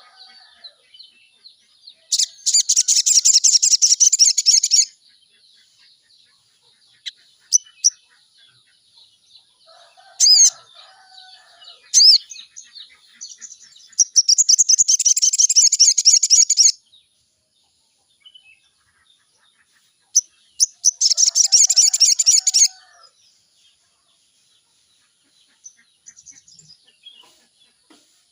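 Sogon song, used as a lure to set a captive sogon singing: three loud, fast, high trills of two to three seconds each, with softer scattered chirps between them.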